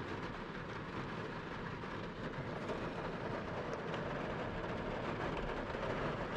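Steady rushing noise of a vehicle on the move, growing a little louder about two seconds in.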